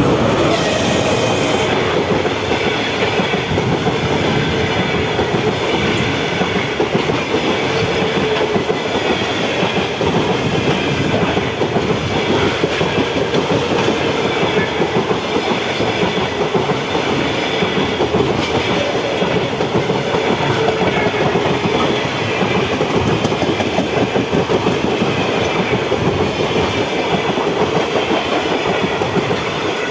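A train passing close by: loud, steady rumble of railway wagons' wheels on the rails, with the clickety-clack of wheels over rail joints running on without a break.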